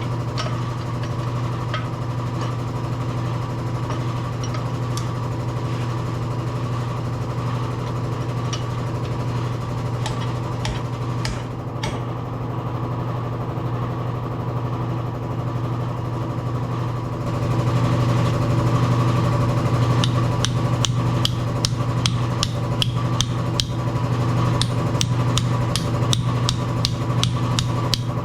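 A steady machine hum with metal clicks and taps from hand tools on top. The taps come thicker and the hum a little louder about two-thirds of the way through.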